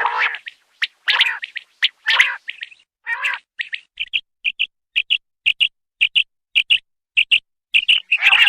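Quail calling: a few longer, fuller notes at first, then from about four seconds in a steady run of short doubled high notes, about two a second.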